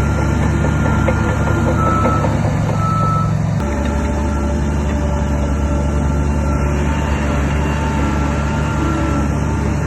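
Diesel engine of heavy earthmoving machinery running steadily, with a reversing alarm beeping. The engine sound changes abruptly a little over a third of the way in.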